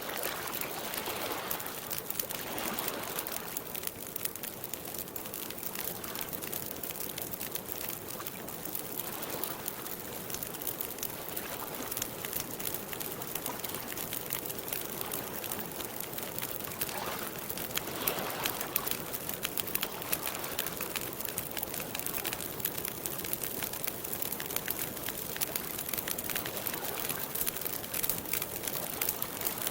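Campfire crackling with many small, quick pops, over a soft wash of lake water lapping.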